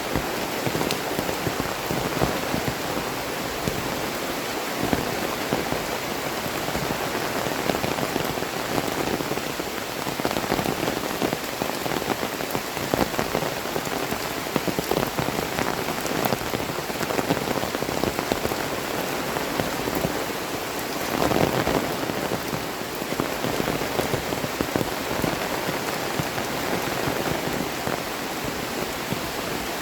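Heavy tropical downpour: a steady, dense patter of raindrops, swelling briefly louder about two-thirds of the way in.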